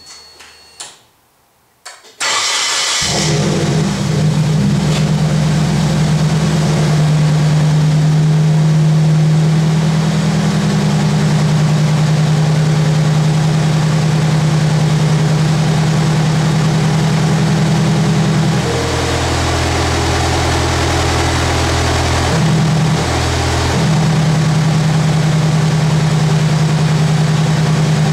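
A Nissan KA24DE 2.4-litre inline-four, in a 240SX with aftermarket cat-back pipes, cranks and catches about two seconds in, then idles steadily. Its note shifts lower for a few seconds past the middle, then settles back. The owner reports it healthy, with no knocks or ticks.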